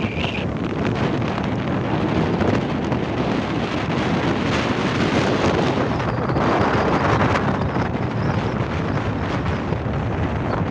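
Gusty wind buffeting the microphone, a steady rushing noise that swells for a while past the middle.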